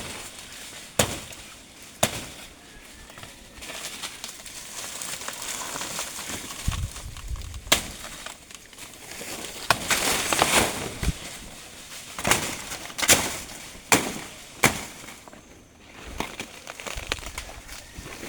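About nine sharp knocks at irregular intervals, with rustling outdoor noise between them.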